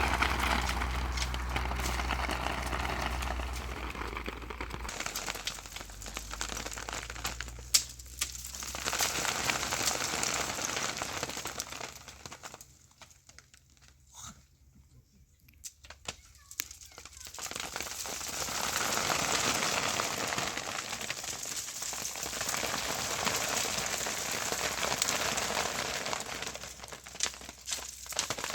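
Rustling and crackling with scattered sharp clicks, dying away almost to silence for several seconds midway, then starting up again; a low hum sounds under it for the first few seconds.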